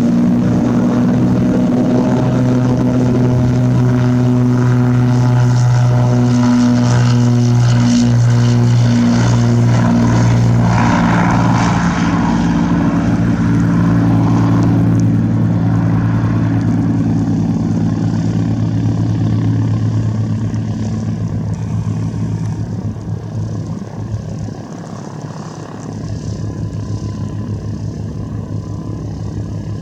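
Propeller airplane's engine and propeller droning loudly and steadily, then fading away over the last third as the aircraft moves off.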